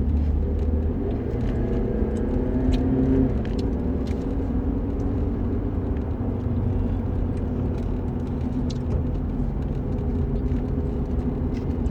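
Steady low rumble of a running motor vehicle, with a faint even engine hum and no change in speed.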